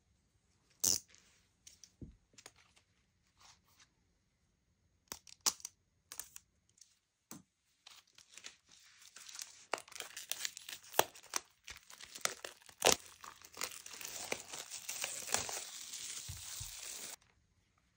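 A few scattered clicks and taps, then several seconds of dense crinkling and tearing as plastic shrink wrap is slit and peeled off a CD album; the crinkling stops abruptly near the end.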